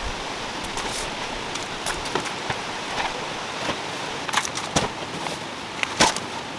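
Steady rain, with single drops striking a nearby surface at irregular moments as sharp ticks, a few of them louder.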